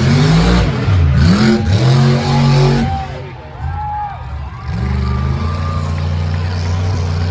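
Monster truck engine revving hard in repeated swells. The throttle is chopped about three seconds in, then the engine picks back up to a steady run.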